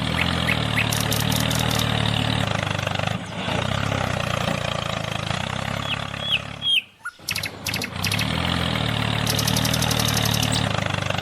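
A small engine running steadily, with a few short bird chirps over it. It breaks off briefly about seven seconds in, then carries on.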